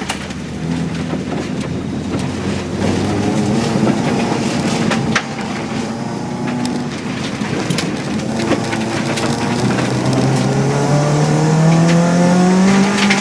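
Naturally aspirated 2.5-litre Subaru flat-four in a rally Impreza, heard from inside the cabin, working under load through slippery corners. The revs climb steadily over the last few seconds as the car accelerates, and a few sharp knocks come through along the way.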